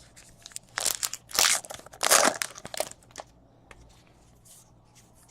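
Crinkling and rustling of a trading-card pack wrapper being handled and torn open, in several bursts between about one and three seconds in.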